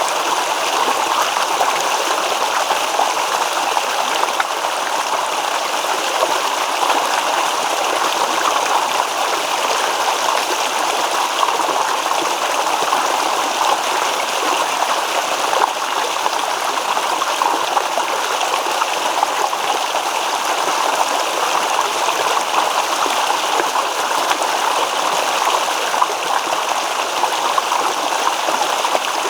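A shallow stream babbling and rippling steadily over stones, an even rushing wash of water with no break.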